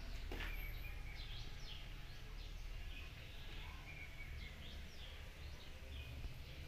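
Small birds chirping over and over in short, high calls, over a low, steady rumble. There is one brief click just after the start.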